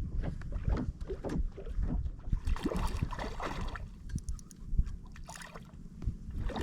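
Irregular knocks and bumps on a fishing kayak, with low rumbling of water and wind, and a burst of noisy splashing or rustling about two and a half seconds in.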